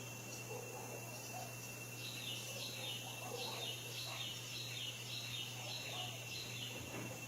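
Faint animal calls: a run of short, falling chirps, about two a second, that starts about two seconds in and stops near the end, over a steady high whine.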